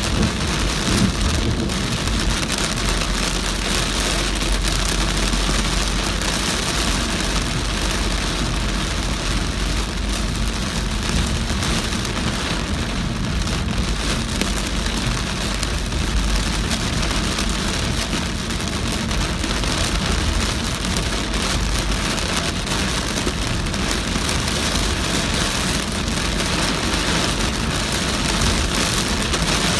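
Heavy rain pelting a moving car, a steady dense hiss, with a low road and engine rumble underneath that swells at times.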